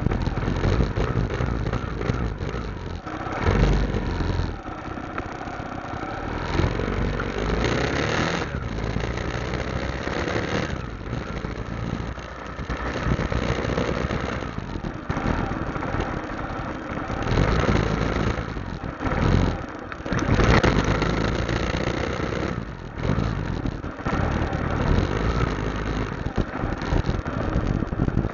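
Motorcycle engine running on the move, its level rising and falling every few seconds.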